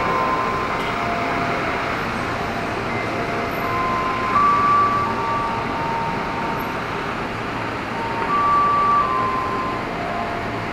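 Steady noise of an electric commuter train at a station platform mixed with city traffic, with short high whistle-like tones coming and going. The two loudest tones come about four and a half and eight and a half seconds in.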